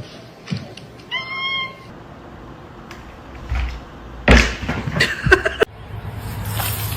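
A domestic cat meows once, about a second in, in a single call of under a second. A few seconds later come several loud thumps or knocks.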